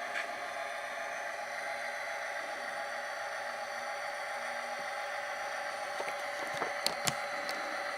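Model locomotive sound decoder playing an EMD 645 diesel idling through a small speaker: a steady hum made of many held tones. A few light clicks come near the end.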